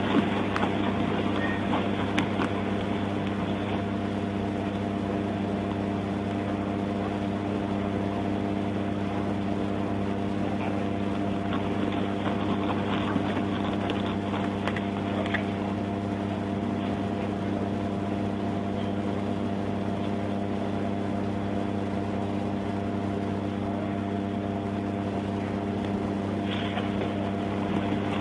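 Steady, unchanging hum of an idling vehicle engine, with a few faint clicks over it.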